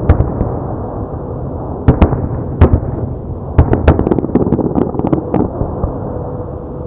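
Aerial fireworks bursting in rapid succession: many sharp cracks over a continuous rumble of booms and their echoes, with clusters of cracks about 2, 2.6, 4 and 5 seconds in.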